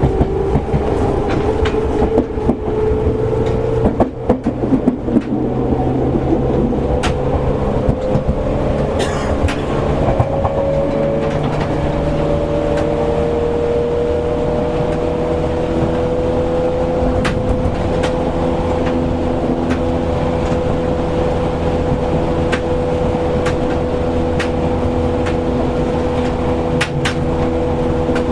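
Seibu 101 series electric train running, heard from inside motor car MoHa 223: the low-pitched traction motor note rises over the first ten seconds or so as the train gathers speed, then holds steady at cruising speed. Sharp clicks from the wheels over rail joints come now and then over a steady running rumble.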